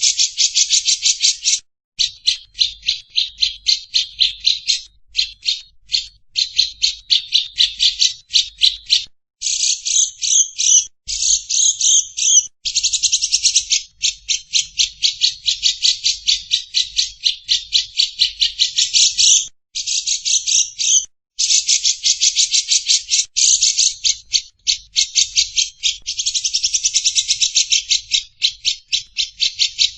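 Songbird calling in fast, high-pitched chattering trills: long runs of rapidly repeated notes lasting several seconds each, broken by short pauses.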